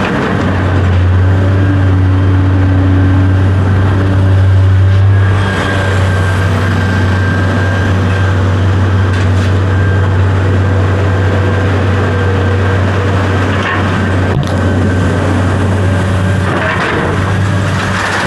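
A large engine running steadily with a loud, even low drone. There is a brief knock a little past the middle.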